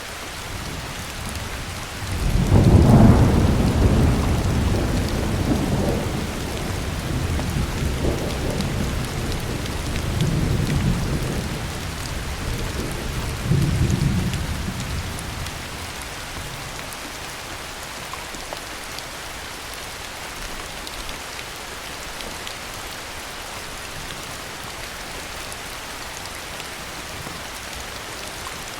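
Heavy rain falling steadily, with a long roll of thunder that breaks in suddenly about two seconds in, rumbles on in several swells and dies away about halfway through, leaving the rain alone.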